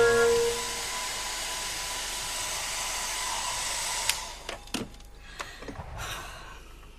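Electric hair dryer running with a steady hiss and faint whine, switched off with a click about four seconds in, followed by a few light knocks and clicks as it is handled.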